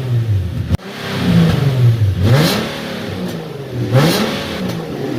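BMW 330xi straight-six with its muffler deleted, revving in neutral: three blips that rise and fall in pitch, with a loud, raspy exhaust note.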